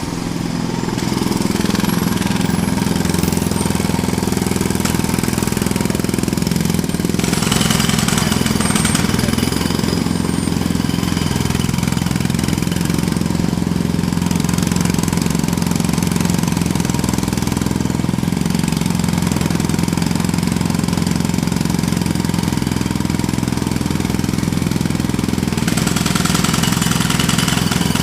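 Jackhammer running continuously with a fast, even hammering that starts abruptly. It turns harsher and brighter for a couple of seconds about seven seconds in, and again near the end.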